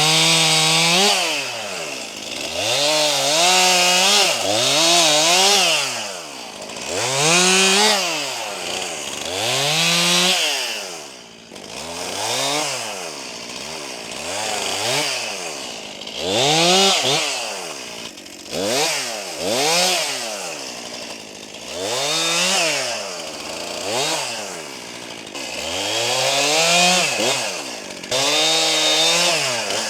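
Brand-new Stihl MS261 C two-stroke chainsaw on its first run, its throttle opened and released over and over. The engine pitch rises and falls about a dozen times, roughly every two to three seconds.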